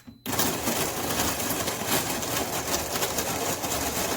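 De'Longhi TrueBrew CAM51035M coffee maker's built-in burr grinder grinding whole coffee beans: a short high beep as brew is pressed, then the loud, steady, crackling grind starts about a quarter second in. This is the first stage of the brew cycle.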